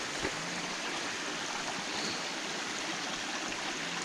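Mountain stream running steadily, swollen after recent rain: a continuous rush of water.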